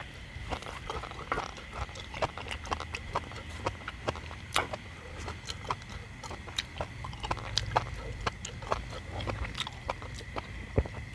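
A man eating close to the microphone, chewing and lip-smacking, heard as frequent sharp, irregular clicks over a low steady rumble.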